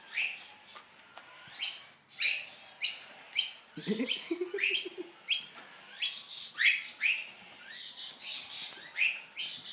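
A bird chirping over and over: short, high chirps that each slide down in pitch, coming roughly once or twice a second.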